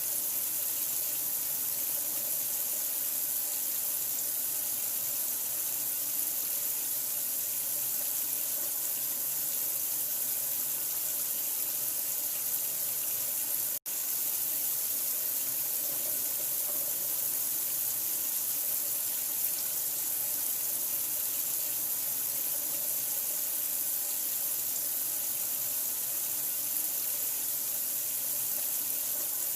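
Steady running water, an even rushing hiss with no change in flow. It drops out for an instant about halfway through.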